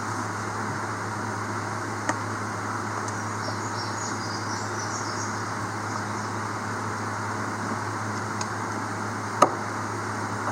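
Steady mechanical hum and hiss, with a sharp click about two seconds in and a louder knock near the end.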